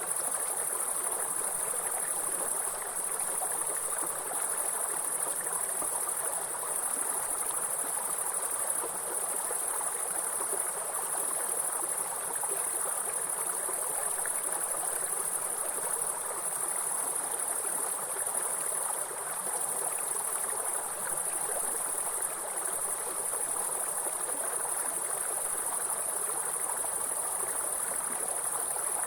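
A steady, high-pitched chorus of insects stridulating without a break, over the even rush of running stream water.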